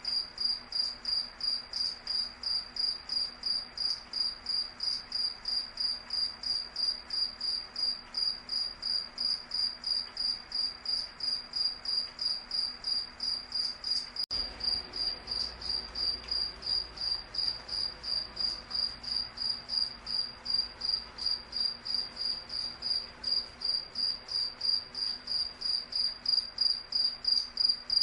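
A cricket chirping steadily in a high-pitched, even rhythm of about three chirps a second.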